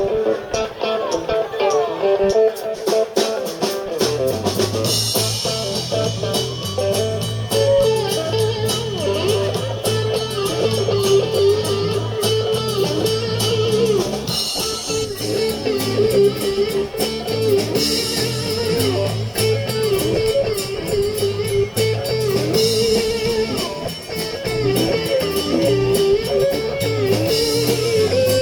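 Live blues band playing an instrumental intro, with electric guitar riffing over drums; the bass guitar comes in about four seconds in.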